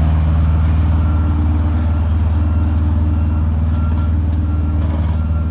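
Heavy diesel engine of road-paving machinery running steadily, with a faint short beep repeating every half second or so, like a reversing alarm.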